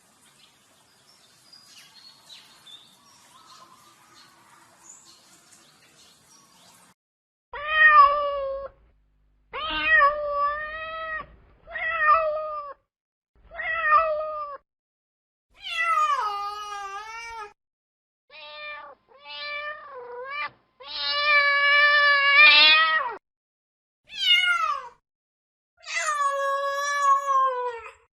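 Domestic cat meowing over and over: about ten separate meows, most falling in pitch at the end, and one longer drawn-out meow about two-thirds of the way through. The first several seconds hold only faint noise before the meows start.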